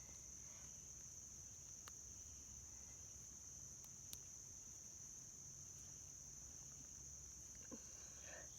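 Crickets trilling in a steady, high, unbroken drone, otherwise near silence, with two faint ticks.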